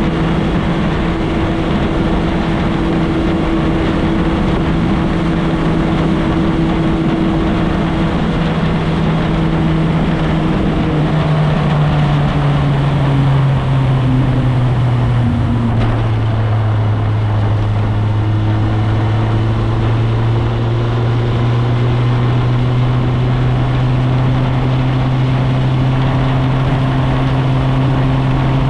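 Motorcycle engine running steadily under way, heard with wind and road noise. Near the middle the engine note steps down in pitch, then holds steady at the lower pitch.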